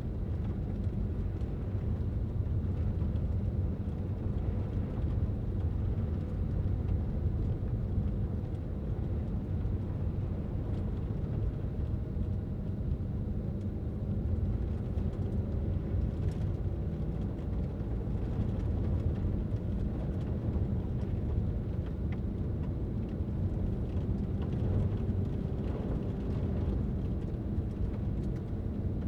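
Car driving at steady speed: a continuous low rumble of engine and tyres on the road.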